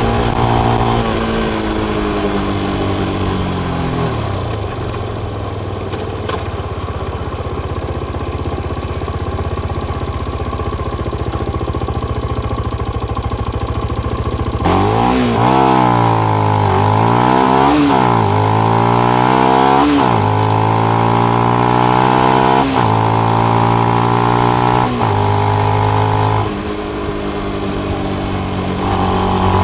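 Benelli BN125 motorcycle engine through its stock exhaust with the dB killer fitted: the revs fall away over the first few seconds and it runs low and steady, then about halfway the revs swing quickly up and down several times before settling into steady runs at a few stepped engine speeds.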